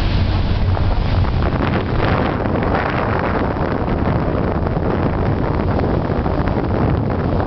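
Wind buffeting the microphone over a steady low rumble. The low hum is strongest in the first second or so, then eases.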